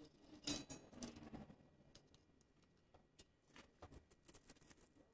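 A few light clicks and knocks from handling objects, one louder knock about half a second in, then quieter scattered ticks.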